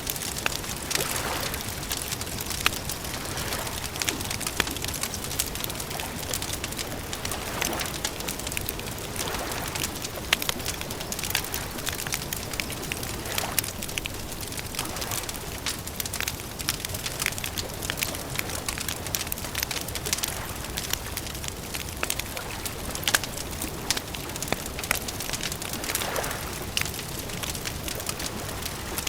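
Campfire burning and crackling, with many sharp irregular pops and snaps over a steady hiss.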